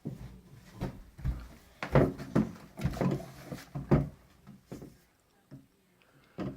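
A run of thumps and knocks, several in the first four seconds, from someone climbing down from a bunk bed.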